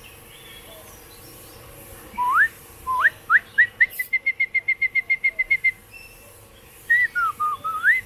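A bird's loud whistled song. Several rising whistles come faster and faster, then run into a quick string of short notes on one pitch, about eight a second. Near the end comes a whistle that dips and rises again.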